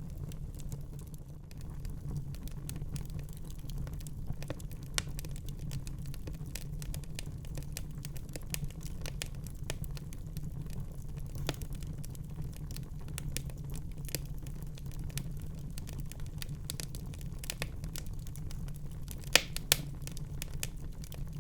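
Wood fire crackling in a fireplace: irregular small crackles and snaps over a steady low rumble, with two louder pops near the end.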